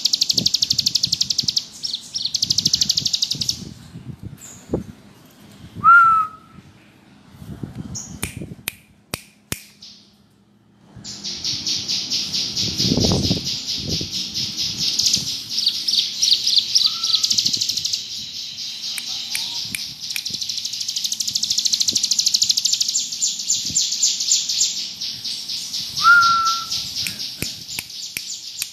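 Ciblek gunung (a prinia) singing a rapid, high, buzzing trill: first briefly, then after a pause of several seconds without a break to the end. A short, lower, sharper note sounds now and then, and there is low rustling and a thud in the pause.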